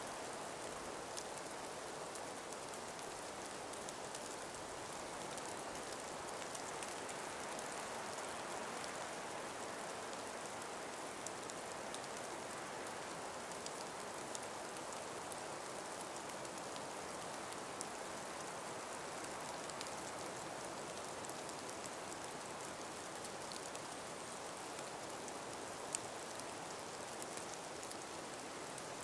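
A calm breeze through an ice- and snow-laden forest makes a steady soft hiss, scattered with many faint light ticks and patters. A single sharper tick comes near the end.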